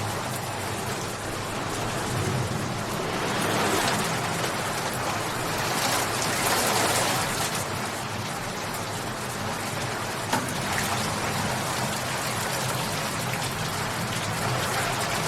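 Steady rain falling and pattering on surfaces, growing a little heavier twice in the middle.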